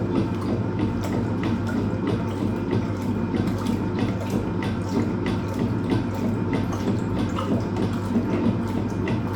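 Hoover Automatic 820 top-loading washing machine filling with water, the water splashing steadily into the drum over a low motor hum.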